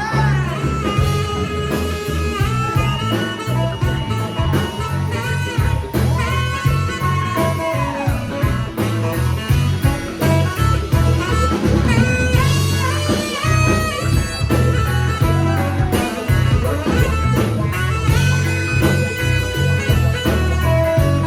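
A live ska-rock band plays an instrumental solo break: a lead instrument plays a bending, sliding melody over a steady pounding bass and drum beat.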